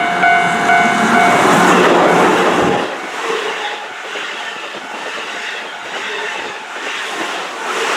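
Keihan Electric Railway train running through a level crossing, loudest in the first three seconds and then going on more quietly. The crossing's warning bell rings about twice a second at the start until the train covers it.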